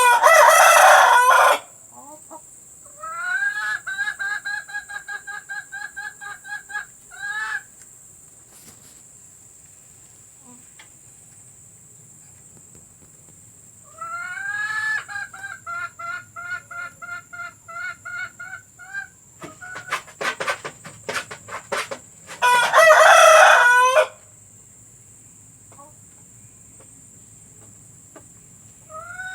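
Chickens calling. Long runs of evenly repeated cackling notes, typical of a hen's laying cackle, come twice, and two short, loud calls sound near the start and again about 23 seconds in. A quick cluster of sharp taps comes shortly before the second loud call, over a steady high hiss.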